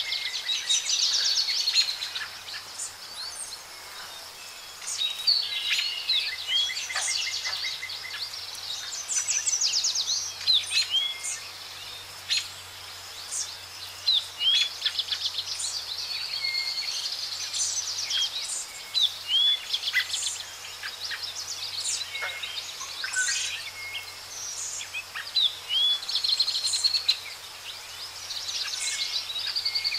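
Several birds singing and chirping over one another: quick trills and short rising whistled notes, with a faint steady low hum underneath.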